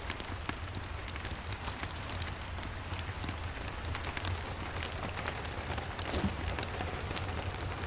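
Steady rain mixed with a wood fire crackling in a fireplace: many small sharp clicks over an even hiss, with a steady low rumble underneath.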